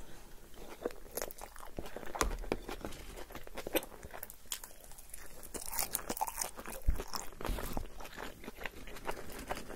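Close-miked chewing and crunching as a person eats yogurt tantuni and fresh arugula leaves: a dense, irregular run of small clicks and crackles, with one louder thump about seven seconds in.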